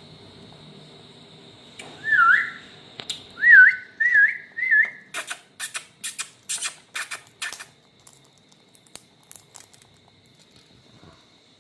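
Indian ringneck parakeet whistling four short wavering notes, then giving a quick run of about eight harsh screeches. Faint beak clicks follow near the end.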